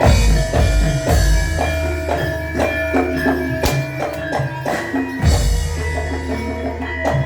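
Live Javanese gamelan-style accompaniment for an imblig (kuda lumping) dance. Struck tuned metal percussion rings in a steady rhythm over deep drum hits.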